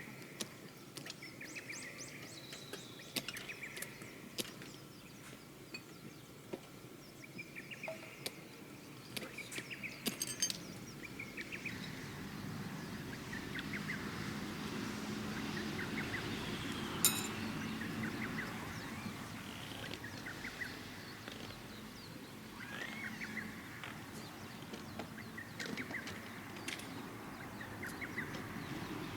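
Faint outdoor ambience of small birds chirping on and off, with a few light clicks and a sharp clink about 17 seconds in.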